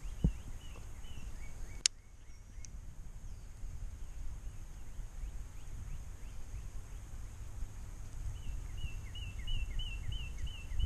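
A bird calls a run of short repeated whistled notes, about three a second, near the start and again through the last couple of seconds, over a steady low rumble. A single sharp click about two seconds in.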